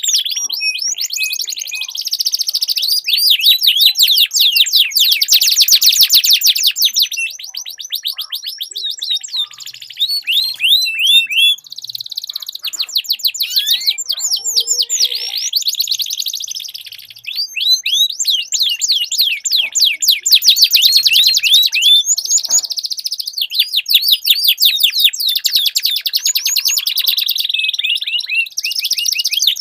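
Domestic canaries singing in a duel: long rolling trills of fast, high repeated notes, one phrase running into the next, with a few brief lulls.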